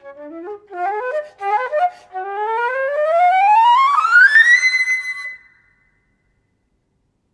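Solo flute playing a few short notes, then a long rising run of about two octaves that ends on a loud high held note, cut off about five and a half seconds in.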